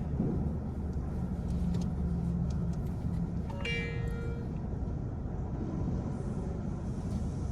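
Steady low rumble of a car and car-wash machinery, heard from inside the car's cabin during an automatic car wash. A brief high-pitched squeak about halfway through.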